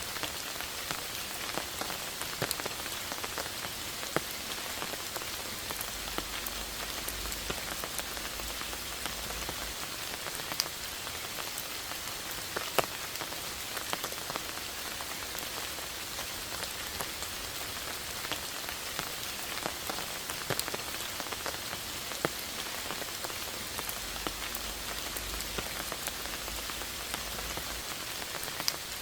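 Steady rain falling: an even hiss with many single drops tapping close by at irregular moments.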